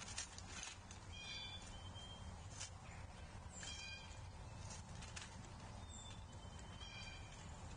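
Birds calling at a feeder: four short harsh calls a couple of seconds apart, with a few thin high whistles between them, over a low steady hum.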